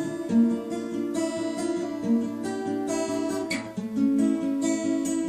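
Acoustic guitar playing an instrumental passage of a slow song, strummed and plucked chords with no singing.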